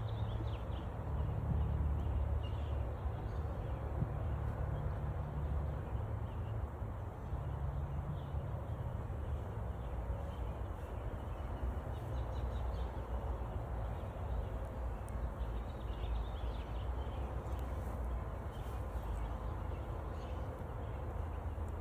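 A swarm of honeybees buzzing as a steady, wavering low hum while they circle and crowd into the hive entrance after being released. Faint bird chirps come through now and then.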